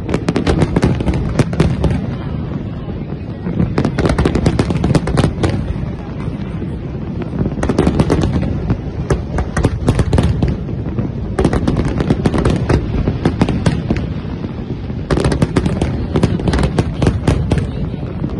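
Aerial fireworks going off in a large display: volleys of rapid bangs and crackles come in about five waves, with steadier low noise between them.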